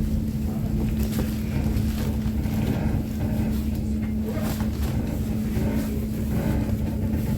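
Steady mechanical hum holding one low pitch over a rumble, from a vehicle's engine or motor running.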